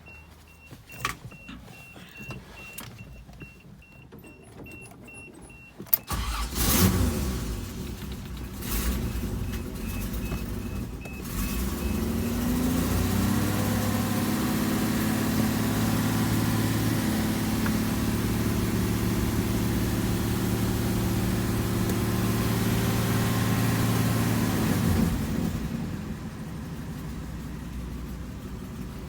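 A repeating high beep and a few clicks, then the Toyota FJ60 Land Cruiser's inline-six petrol engine cranks and catches on a cold start about six seconds in. It runs at raised speed, rising further around twelve seconds in, then settles to a lower idle about twenty-five seconds in.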